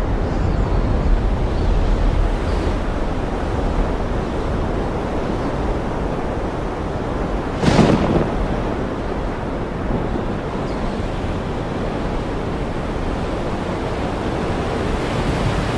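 Floodwater of the swollen Swat River rushing, a steady loud noise of moving water. Wind rumbles on the microphone, easing after the first couple of seconds, and a brief louder surge comes about halfway through.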